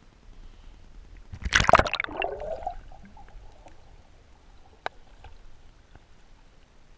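A short, loud rush of water about a second and a half in, trailing off over the next second, then a single sharp click near five seconds.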